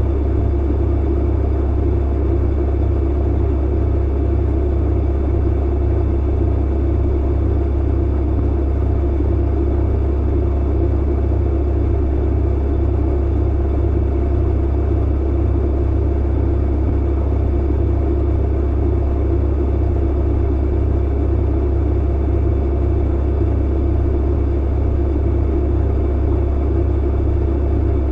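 Clothes dryer running: a steady low hum and rumble of the tumbling drum and motor, unchanging throughout.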